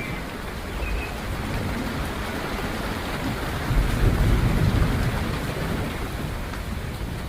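Steady rain falling, with a low rumble of thunder swelling about four seconds in and fading away. A few faint bird chirps sound near the start.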